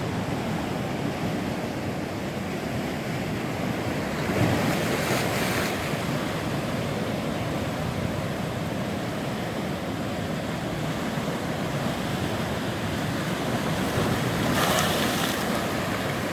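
Ocean waves and wind: a steady wash of moving water, with two louder surges, one about four seconds in and one near the end.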